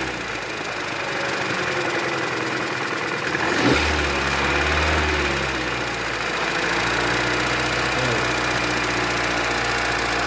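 A 2014 Chevrolet Cruze's 1.8 Ecotec four-cylinder engine is running with a loud, abnormal mechanical noise from inside the engine. It is revved briefly about four seconds in and settles back to idle. When the engine is opened up, the crankshaft and bearings turn out to be worn, with heavy oil sludge in the sump.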